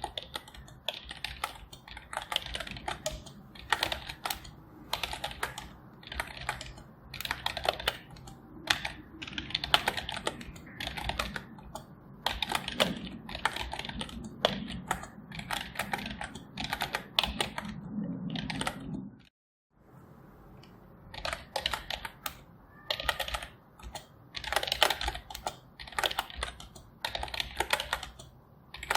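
Computer keyboard typing in continuous runs of clicking keystrokes. About two-thirds of the way through, the sound cuts out completely for half a second.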